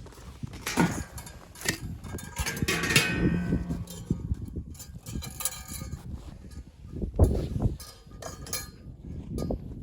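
A run of knocks and clatter from things being handled, with a ringing metallic clink about three seconds in.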